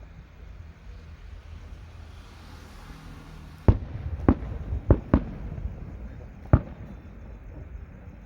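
Fireworks bursting: after a few seconds of low rumble, five sharp booms go off in quick succession in the second half, each with a short trailing echo.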